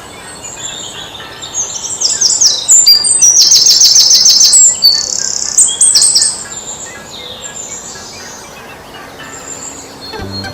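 Songbirds chirping: high chirps and a fast trill, loudest in the middle, then fading to softer scattered calls.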